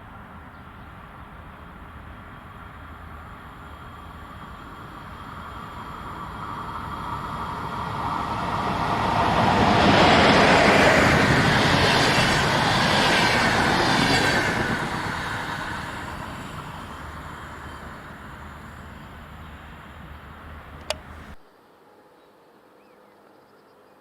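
A train passing by: rail and wheel noise builds for several seconds, is loudest for about four seconds, then fades away. A short click is followed by the sound cutting off abruptly near the end.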